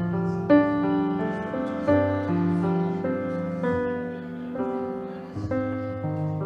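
Piano playing a slow, gentle piece, with struck chords and held notes changing about twice a second.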